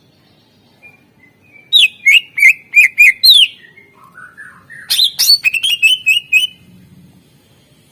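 Greater green leafbird (cucak ijo) singing in two loud bursts. The first is a run of about six sharp notes, each falling in pitch. After a soft, lower warble comes a faster chatter of high repeated notes that stops about two and a half seconds before the end.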